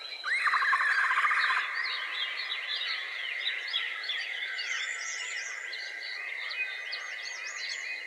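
Wild birds calling: a loud rapid trill lasting about a second near the start, then a string of short chirps sliding up and down in pitch, over a steady high insect-like whine.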